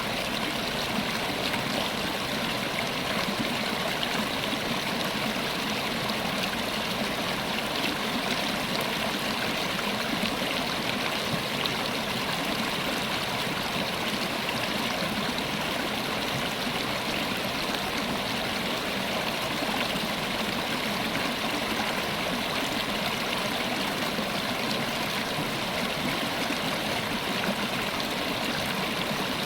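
River water running over rocks: a steady rushing and burbling, even throughout.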